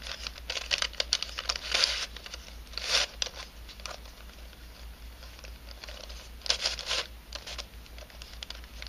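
Pieces of a 3D-printed nylon helicopter twisty puzzle clicking and scraping as they are twisted by hand, in irregular bursts: several in the first two seconds, one around three seconds in, and a pair around six and a half seconds in.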